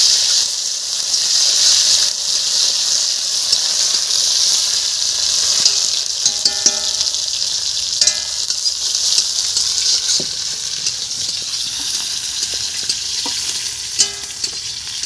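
Onions, onion greens, dried red chillies and bay leaves sizzling steadily in hot oil in a black iron wok. A spatula stirs them, with a few sharp clicks and short scrapes against the pan.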